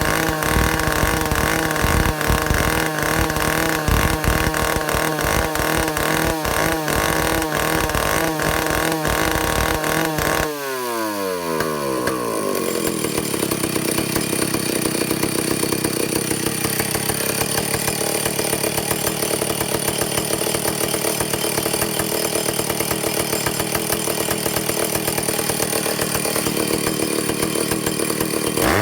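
Vintage Stihl chainsaw's two-stroke engine running with a pulsing beat. About ten seconds in it changes sharply to a steady high-speed run, the high-speed carburetor needle being tested for revs near 10,000 rpm.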